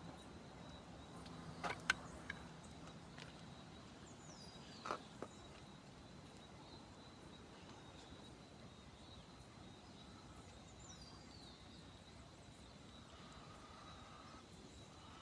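Faint outdoor ambience with a few sharp knocks about two seconds in and again near five seconds, two short high chirps that fall in pitch, and a faint steady high tone.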